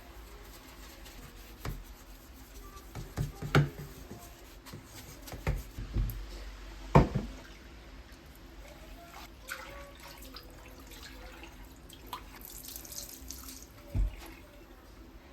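Kitchen sink chores: dishes knocking and clinking, with a short run of tap water about twelve seconds in.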